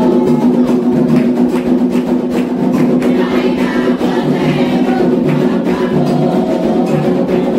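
Candomblé ritual music: atabaque hand drums keep a steady rhythm while voices sing a chant for Xangô.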